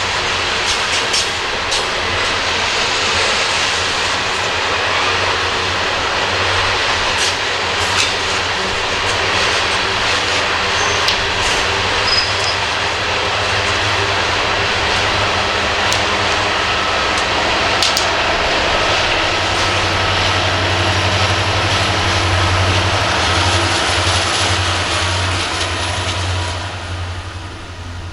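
Loaded coal train climbing a grade: cars rolling past with a steady rushing rumble and occasional sharp clicks from the wheels, joined by the low hum of the rear distributed-power diesel locomotives working under load, which grows stronger in the second half. The sound fades out near the end.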